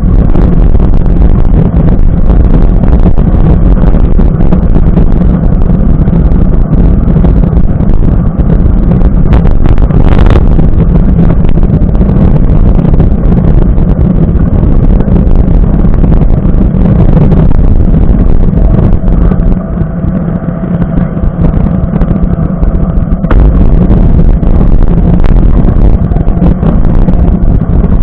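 Heavy wind buffeting on a mountain bike rider's action-camera microphone, with the low rumble of the bike rolling over a dirt trail. The noise is loud and steady, easing for a few seconds about two-thirds of the way through.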